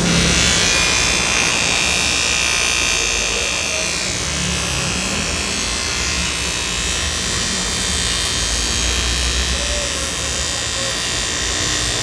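Handheld power tool running steadily with a high-pitched whine, as in grinding work on a damaged alloy wheel.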